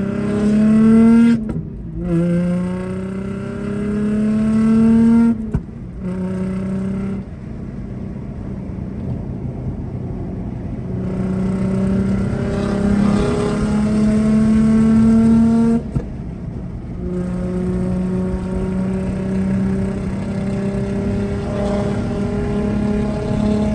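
A car engine accelerating through the gears. The pitch climbs and drops at shifts about a second and a half in, at about five seconds, and again near sixteen seconds, with steadier cruising between.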